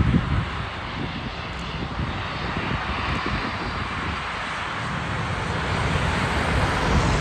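Jet airliner engines heard at an airport: a steady rushing noise with a low rumble, easing slightly early on and growing louder toward the end.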